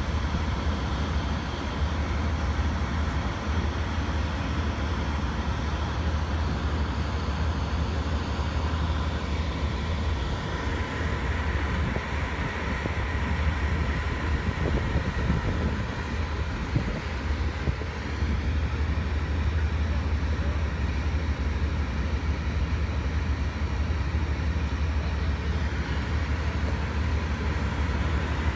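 Amtrak Superliner passenger train standing at idle: a steady low rumble with a faint, constant high whine over it.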